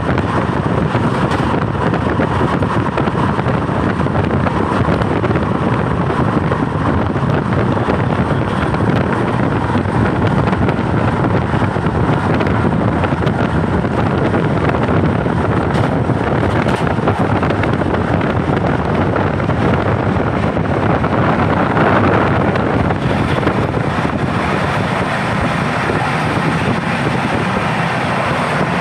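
Humsafar Express train running at speed: a steady, loud rushing of wheels on rails mixed with wind noise.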